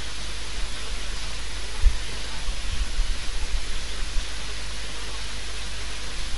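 Onions, green chillies and ginger paste sizzling steadily in hot oil in an aluminium kadai as they are stirred with a spoon, with a low bump about two seconds in.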